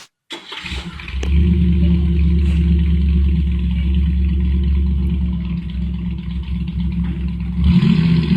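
A heavy machine's engine starts up about half a second in and settles into a steady low running note. Near the end its pitch and level rise.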